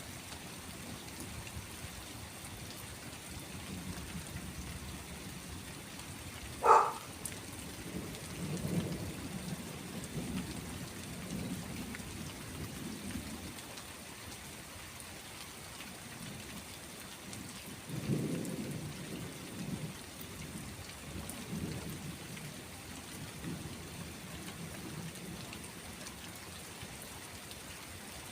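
Steady rain falling, with thunder rumbling low in slow swells, twice building up and fading. A single sharp crack about a quarter of the way in is the loudest moment.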